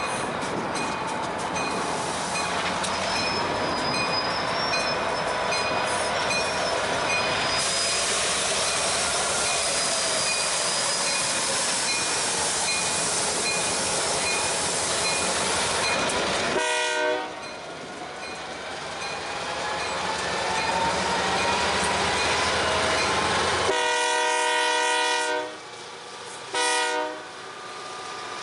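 EMD diesel switching locomotives rumbling and rolling past with steady wheel and engine noise. Later, a multi-note locomotive air horn sounds three times: short, long, short.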